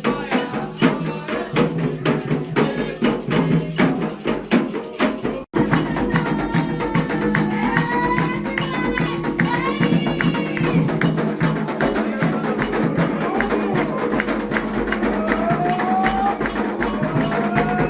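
Candomblé ceremonial music: hand drums and a struck bell beating a steady fast rhythm, with voices singing over it. The sound drops out for an instant about five and a half seconds in, and the drumming and singing resume with the voices more prominent.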